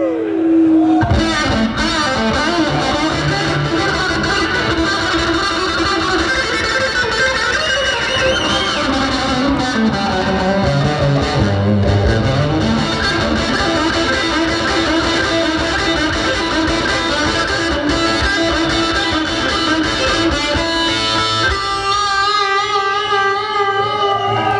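Live rock band playing loudly, led by distorted electric guitar; a long held note comes in near the end.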